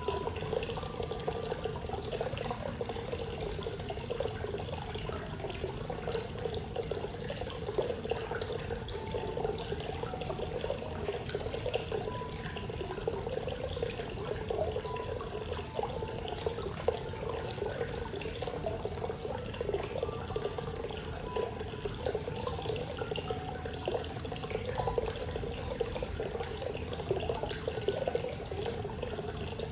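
Hot spring water pouring and splashing steadily into a bath.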